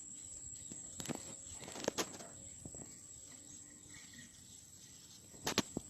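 A steady, high-pitched insect drone, likely crickets, runs throughout. A few sharp clicks and knocks come about a second in, around two seconds in, and twice close together near the end.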